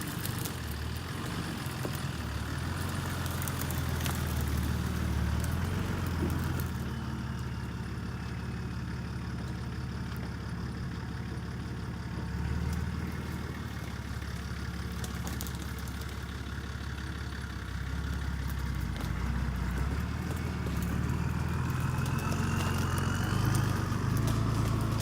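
Motor vehicle engine running, its pitch rising and falling with engine speed, with scattered clicks and knocks and a faint rising whine near the end.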